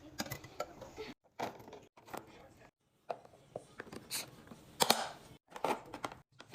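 Packaging and food containers being handled while restocking a fridge: crinkling and rustling with sharp clicks and knocks, the loudest about five seconds in. The sound cuts off abruptly several times.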